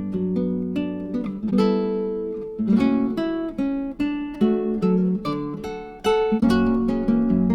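Background music: acoustic guitar plucking and strumming chords in a steady rhythm.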